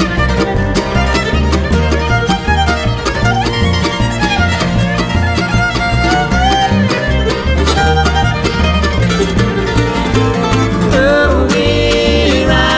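Bluegrass band playing an instrumental break, with a fiddle carrying sliding melody lines over banjo and guitar and a low bass line pulsing underneath.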